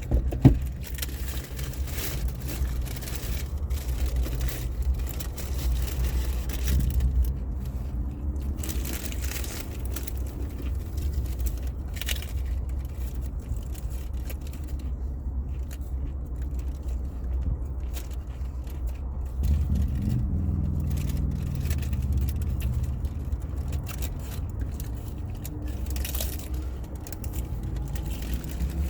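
Close-up chewing and crunching of hard-shell tacos, irregular crunches over a steady low rumble.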